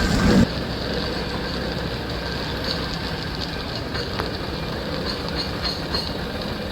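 Steam traction engine on the move, its steady mechanical running sound dropping suddenly in loudness about half a second in, with faint light clanks after that.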